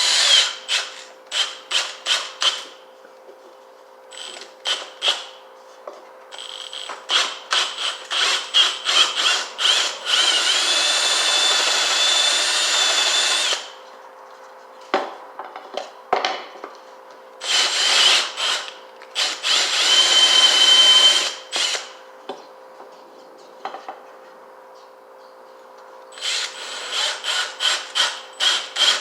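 Power drill boring through wood with a 1-inch paddle (spade) bit, run in many short trigger pulses with two longer steady runs of a few seconds in the middle, the motor's whine rising and falling with each pulse.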